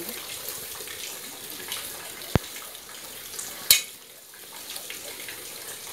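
Pork sizzling as it fries in an open pressure cooker while it is stirred with a metal ladle. There is a sharp click about two and a half seconds in and a louder metallic knock shortly after, with the sizzle dropping briefly after the knock.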